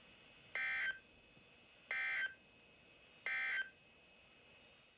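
Emergency Alert System end-of-message data bursts: three short, buzzy digital tone bursts, evenly spaced about a second and a third apart, signalling the end of the alert.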